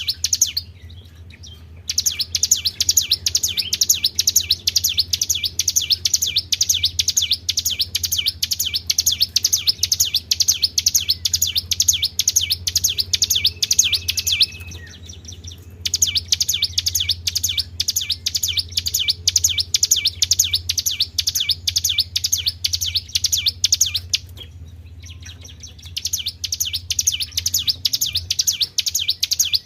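A songbird singing long, very fast trills of high repeated chirps, broken by short pauses about a second in, near the middle and about two-thirds through. A low steady hum runs underneath.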